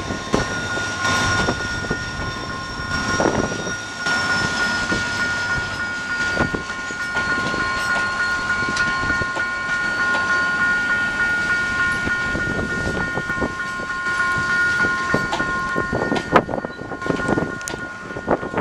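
Train hauled by an EMD GT22 diesel-electric locomotive rolling into a station: a steady rumble with several high ringing tones held throughout, and sharp wheel clacks, more of them near the end.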